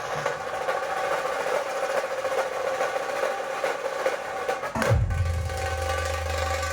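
Band music: dhol and tasha drums beating under steady held keyboard tones. About five seconds in, a deep low tone slides down in pitch and then holds.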